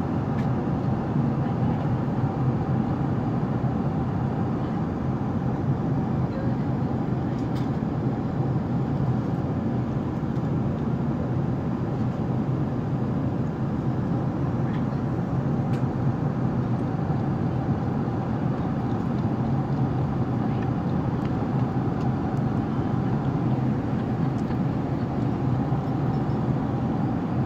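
Steady in-flight cabin noise of an Airbus A380: an even drone of engines and airflow with a low steady hum, unchanging throughout, with a few faint ticks.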